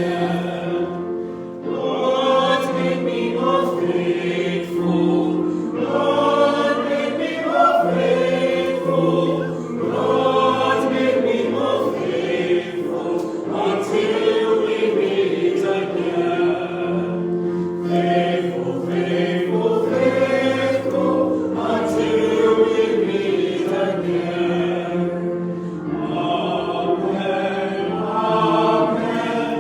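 Choir singing with accompaniment: several voices move through a melody over held low notes.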